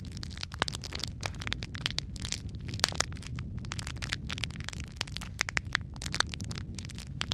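Wood fire crackling in a fireplace: many sharp, irregular pops and snaps over a steady low rumble of burning.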